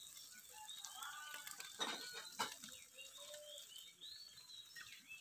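Faint bird chirps and short calls, several arching notes scattered through the quiet, with two sharp clicks about two seconds in.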